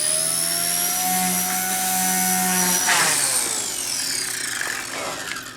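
WLtoys K110S single-rotor RC helicopter's electric motor and rotor whining at speed: the pitch holds steady for about three seconds, then falls away over the last couple of seconds as the motor winds down.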